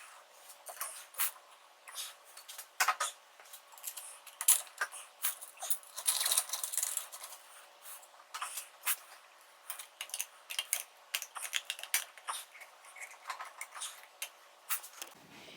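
Irregular metal clicks and clinks as a motorcycle headlight bucket and its mounting hardware are handled and worked into place, with a brief scraping rattle about six seconds in.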